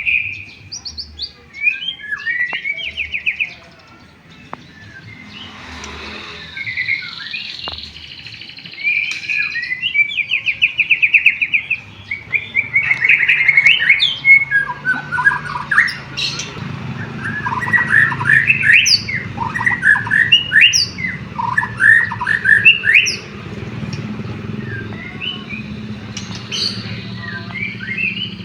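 White-rumped shama (murai batu) singing a long, varied song of rapid trills and quick sweeping whistled notes, laced with canary-like phrases it has learned.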